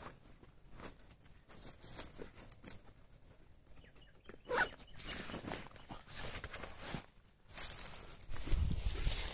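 A backpack being handled and zipped shut, with scattered rustles and clicks of fabric and straps, then louder rustling and handling noise for the last couple of seconds as it is swung onto the back.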